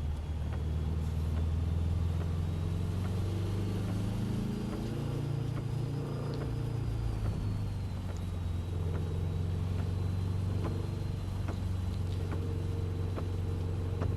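Subaru WRX's turbocharged flat-four engine running at part throttle, heard from inside the car on a wet track, its pitch rising for a couple of seconds near the middle and then dropping back. A steady hiss and scattered faint ticks run under the engine.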